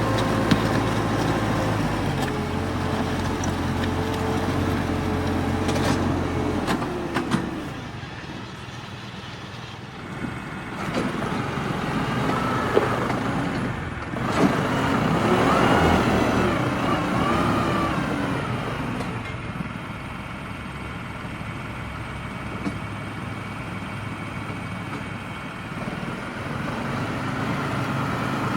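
Allis-Chalmers HD5 crawler bulldozer's diesel engine running as the machine works, its pitch shifting: steady at first, dropping about seven seconds in, then wavering and rising again in the middle. A few sharp knocks come through.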